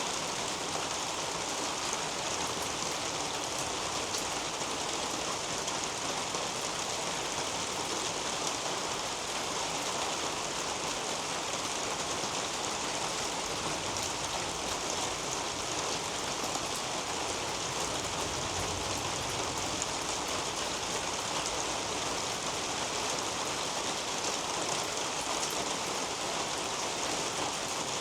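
Steady rain falling on a leafy garden canopy: an even hiss of rainfall dotted with many small drop taps.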